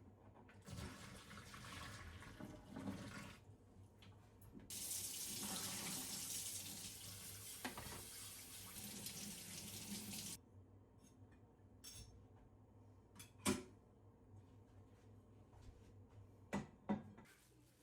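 Water running from a kitchen tap into a sink in two spells, the second stronger, shut off suddenly about ten seconds in. A few sharp knocks follow near the end.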